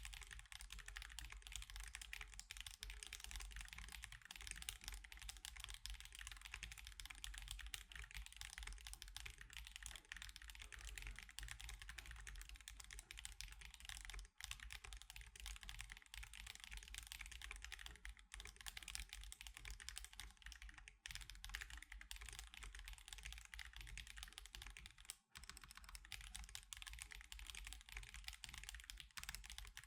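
Fast, continuous typing on an Akko Alice Pro mechanical keyboard with Akko CS Crystal switches and Sakura and Mochi keycaps: a dense stream of key clacks. It breaks off briefly about 14 seconds in and again about 25 seconds in.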